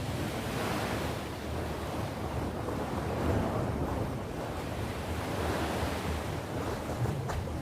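Sea surf: waves washing onto the shore in a steady rush that swells as it begins and peaks about three seconds in.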